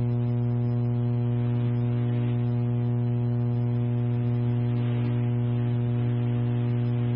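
Steady electrical hum with a buzz of evenly spaced overtones on an otherwise idle dispatch radio channel, heard through the narrow band of a scanner recording.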